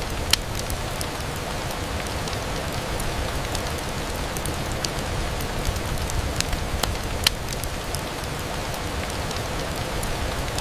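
Steady rain on a window: an even hiss, with scattered sharp ticks and pops throughout.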